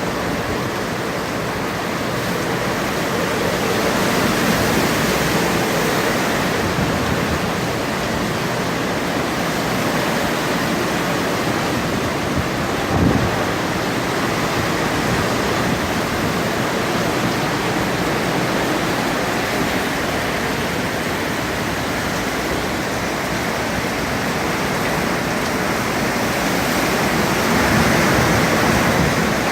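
Hurricane-force wind rushing steadily, swelling in gusts a few seconds in and again near the end. One short sharp knock about halfway through.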